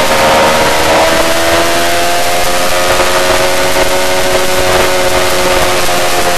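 Yamaha R6 inline-four engine running hard at a steady high pitch, dipping slightly and picking up again, under a dense rushing hiss of wind.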